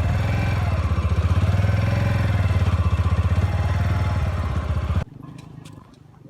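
A vehicle engine running close by with a rapid, even pulsing beat. It cuts off abruptly about five seconds in, leaving a much quieter background with a few faint clicks.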